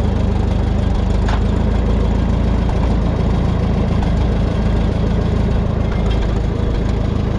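Minneapolis-Moline tractor's gasoline engine idling steadily, running after a fix to the carburetor float.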